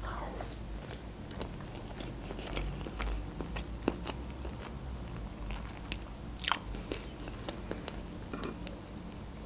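Close-up chewing of a mouthful of soft sushi roll, with small wet mouth clicks throughout. A sharper click comes about six and a half seconds in.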